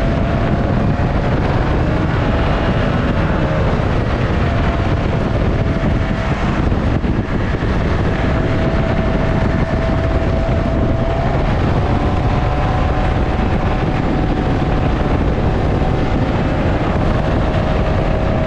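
Motorboat engine running flat out at redline on a top-speed run, its pitch creeping slowly upward over a steady rush of wind and water. It hits redline because the propeller is too small for the boat: it needs a bigger prop.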